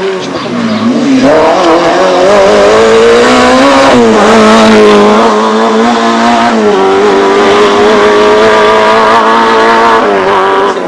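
Rally car engine running hard at high revs. Its pitch drops briefly near the start, climbs until about four seconds in, then holds fairly steady with small dips.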